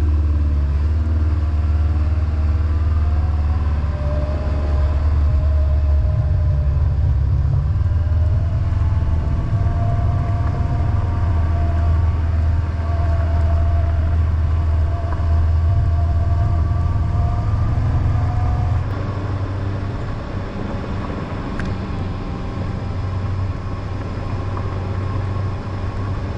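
Honda motorcycle riding along, its engine note climbing slowly as it gathers speed over a heavy low rumble, then easing off and getting quieter about nineteen seconds in.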